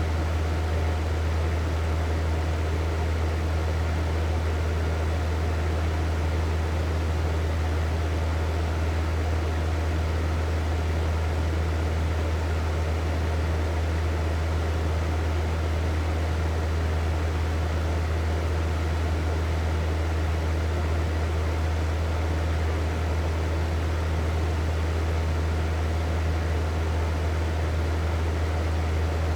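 Hair dryer running steadily: a strong low motor hum under an even rush of blown air, unchanging throughout.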